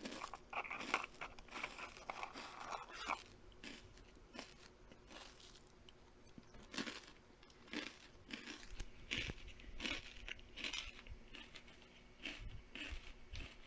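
Close-up eating sounds: irregular crunching and chewing, with a dense run of crunches over the first three seconds and scattered crunches after.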